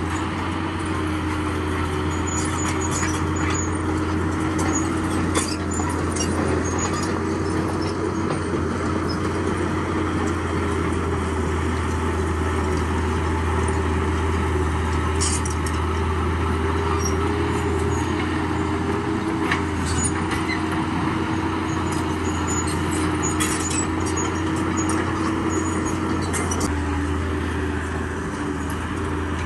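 Bulldozer's diesel engine running steadily with a deep, even hum, with scattered short clinks and clanks of steel and rock over it.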